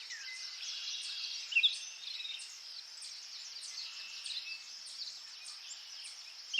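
Birds chirping and singing, many short overlapping calls, with one louder chirp about a second and a half in.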